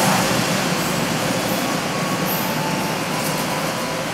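Passenger train carriages rolling past on the rails: a steady rumble of wheels on track that slowly fades as the end of the train draws away.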